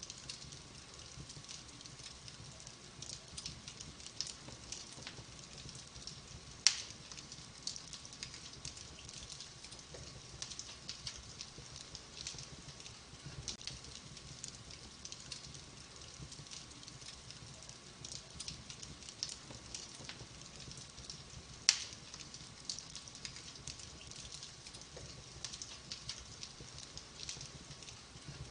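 Wood fire crackling in a fireplace: a steady patter of small snaps and ticks, with two much louder sharp pops, about a quarter of the way in and again about three quarters of the way through.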